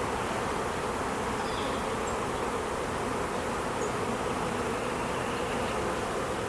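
A mass of honeybees buzzing around an opened hive in a steady, dense hum. The bees are agitated and defensive, with robbing under way between the hives.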